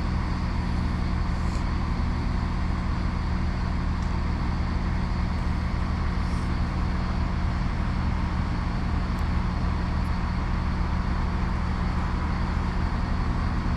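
Diesel multiple-unit train's underfloor engine idling steadily, a constant low hum.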